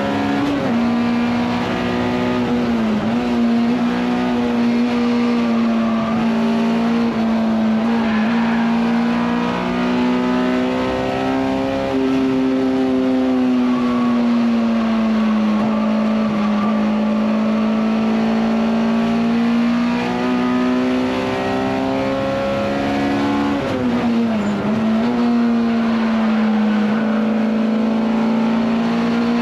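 Honda S2000 race car's F22C inline-four engine heard from inside the cockpit, running hard at high revs on track. Its pitch slowly rises and falls and twice drops sharply and climbs back, about three seconds in and near the end.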